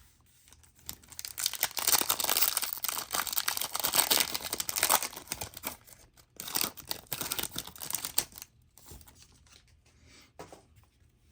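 A 2023 Topps Cosmic Chrome trading-card pack being torn open and its wrapper crinkled: a dense crackling for about seven seconds, then a few faint handling sounds near the end.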